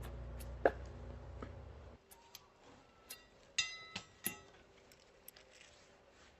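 A few sharp clinks and taps of hard objects, the loudest about three and a half seconds in with a short metallic ring. A steady low hum runs underneath and stops abruptly about two seconds in.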